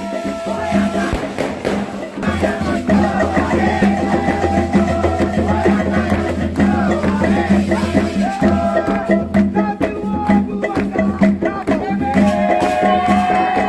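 Candomblé ritual music: voices singing a chant over steady percussion.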